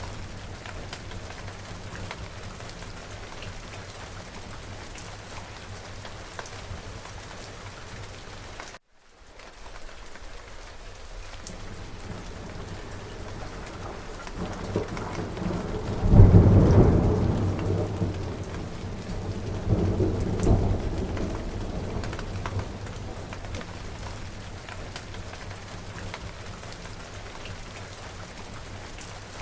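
Steady rain falling, with a roll of thunder in the middle: the rumble builds, breaks loudest about halfway through, swells again a few seconds later and dies away. The sound cuts out completely for a moment about a third of the way in, like a splice in the recording.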